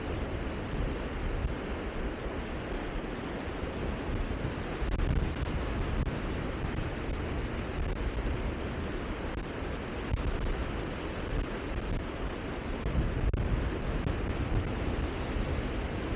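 Steady rushing wind noise, with gusts buffeting the microphone in uneven low rumbles.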